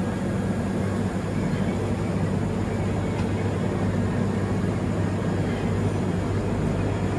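Steady low mechanical hum, like an idling engine or running machinery, over an even background noise.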